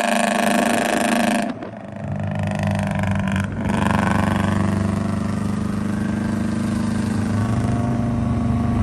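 Straight-piped Honda Accord exhaust running with a steady low drone. About a second and a half in, the sound dips suddenly for a moment, then carries on steadily.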